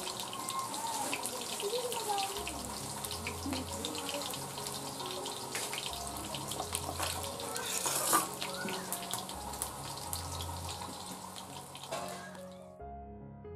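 Sliced onions sizzling and crackling in hot oil in a large kadai, with one sharper pop about eight seconds in, over quiet background music. The sizzling cuts off suddenly near the end, leaving only the music.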